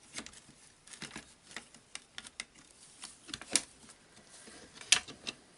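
Scattered light clicks and taps of jigsaw parts being handled and fitted together while the motor gear is aligned into place, with two sharper clicks in the second half.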